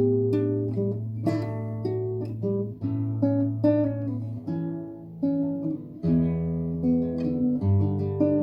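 Acoustic guitar playing a song's introduction as separate picked notes over held bass notes, with no singing.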